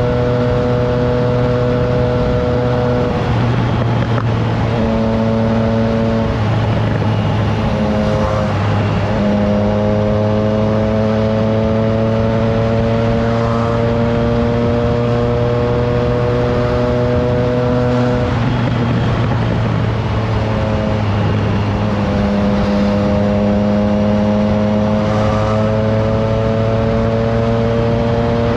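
Triumph Trident 660's inline three-cylinder engine breathing through a FireTong aftermarket exhaust, heard from the bike while riding: the engine note climbs slowly under throttle, with a few brief breaks where the pitch drops and picks up again, over steady wind noise.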